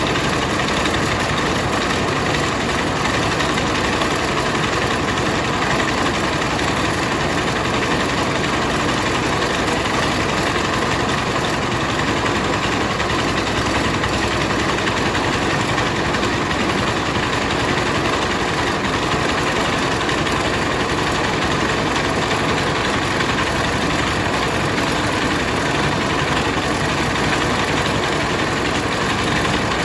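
Rice milling machine running steadily, a dense, unchanging mechanical drone with no pauses or changes in pace.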